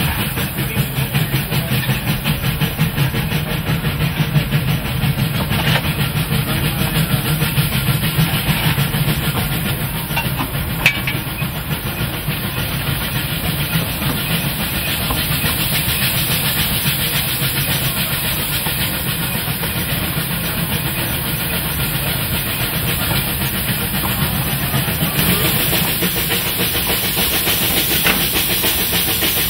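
Narrow-gauge steam train running on its track: a steady, even running noise weighted low, with one sharp click about eleven seconds in.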